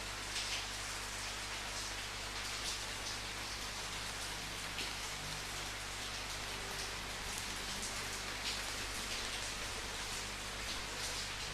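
Steady rain falling, a constant hiss with separate drops splashing here and there throughout.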